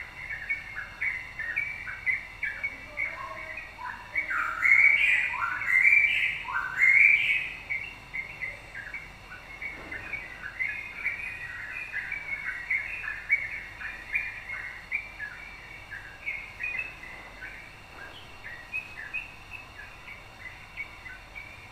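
Yellow-vented bulbul (trucukan) singing: a rapid run of short chirps, with three loud upward-sweeping notes about five to seven seconds in.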